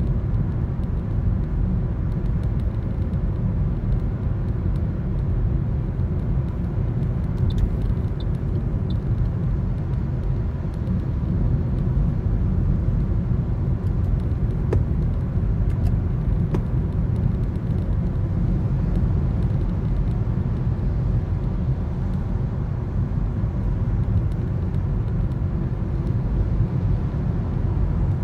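Steady low road and engine rumble of a Toyota Corolla on the move, heard from inside the cabin through a dashcam's microphone.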